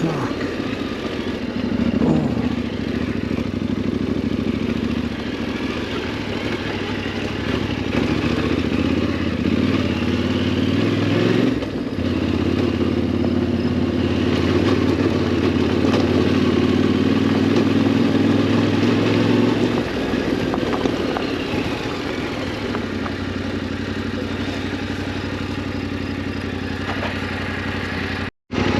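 Yamaha Tenere 700's parallel-twin engine running under way as the motorcycle is ridden off-road, the engine note shifting as the throttle is eased off and opened again about twelve seconds in and again around twenty seconds. The sound drops out briefly just before the end.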